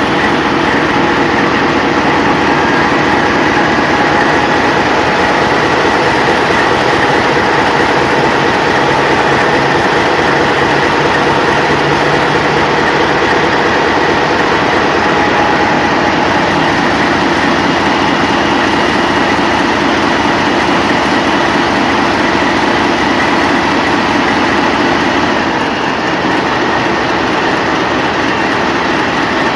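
TEP70 diesel locomotive's V16 diesel engine running loud and steady, with a high steady turbocharger whistle over the engine noise. The level dips slightly about 26 seconds in.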